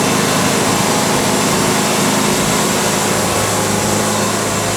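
Wood-Mizer band sawmill running steadily under load, its engine and band blade cutting through a cedar log.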